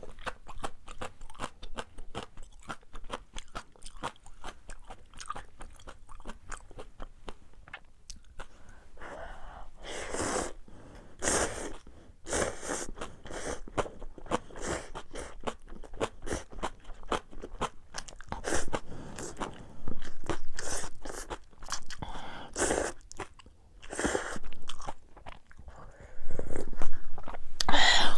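Close-miked eating: steady chewing with many small crunches and wet mouth clicks. Several louder, longer bursts come near the middle and again near the end.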